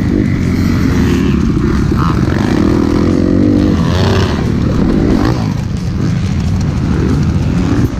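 Kawasaki KX250F dirt bike's single-cylinder four-stroke engine running under way, its pitch rising and falling as the throttle opens and closes.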